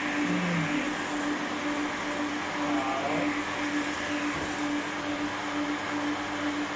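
Pet hair dryer blowing steadily: a constant rush of air with a steady hum from its motor.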